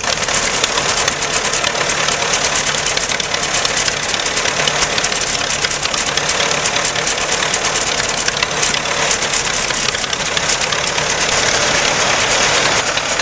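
Tractor engines running with a steady, rapid clatter.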